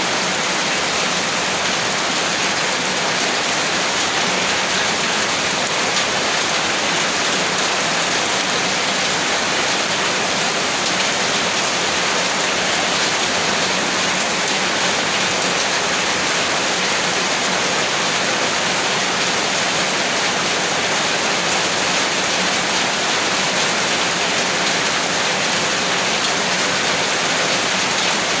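Heavy rain falling in a steady, dense hiss with no thunder or breaks.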